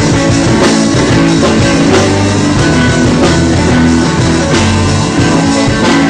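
A rock-style band playing, with drum kit and guitar, loud and steady.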